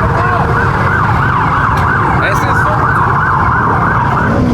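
Police car siren on its fast yelp setting, wailing up and down about three times a second and cutting off near the end, over a steady low rumble.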